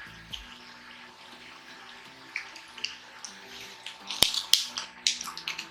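Close-miked eating of crispy deep-fried pork: quiet chewing, then a run of loud crunches from about four seconds in. Faint background music plays underneath.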